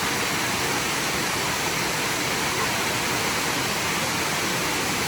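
Steady rush of falling water from a waterfall, an even hiss with no pauses.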